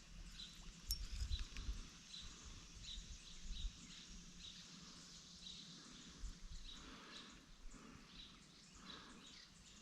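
Faint outdoor ambience with a bird chirping: a short, high chirp repeated steadily, about three every two seconds. A brief low rumble comes about a second in.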